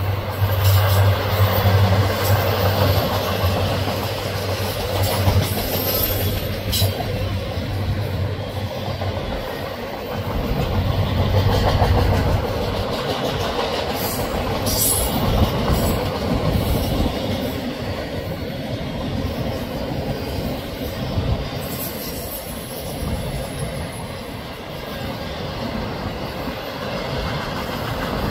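Freight train of autorack cars rolling past: a steady rumble of steel wheels on rail with clicking and clattering, and a few brief high squeals.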